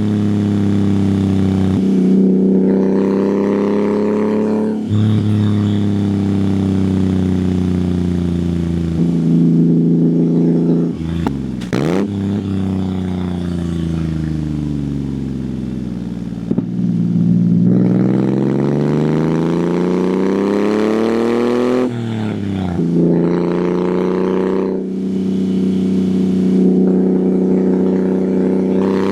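1997 Honda Acty's 660cc three-cylinder engine running through an aftermarket exhaust, pulling through the gears. The pitch climbs and then drops suddenly several times as it shifts, winds down slowly around the middle, and climbs again, with a sound like a little motorcycle.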